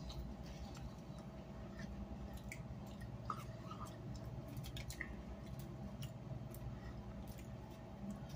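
Faint chewing and small wet mouth clicks of someone eating, over a steady low hum.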